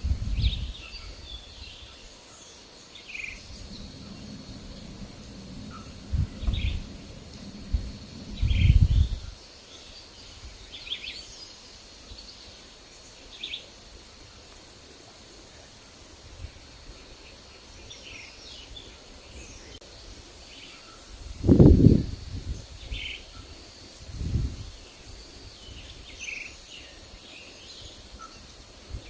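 Forest birds chirping, with scattered short calls throughout, over a faint steady high insect drone. Low rumbling gusts of wind come and go; the loudest is about three-quarters of the way through.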